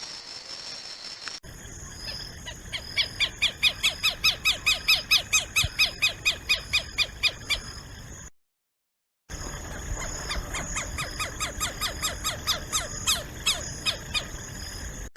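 A bird singing a fast series of repeated sliding notes, about four to five a second, stopping abruptly just past the middle for about a second of silence and then starting again.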